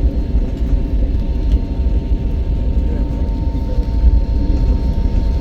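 Steady low rumble of a running vehicle, with a thin steady hum above it and no change in pitch or level.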